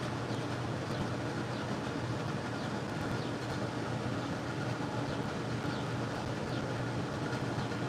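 A steady low mechanical hum with an even hiss, and faint high bird chirps now and then.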